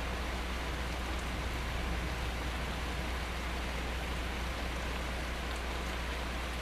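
Rain falling steadily during a thunderstorm: an even, unbroken hiss.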